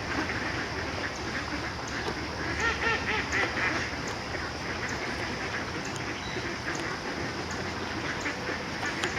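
Ducks quacking and geese honking, with the calls thickest about two to four seconds in, over a steady hiss of outdoor noise.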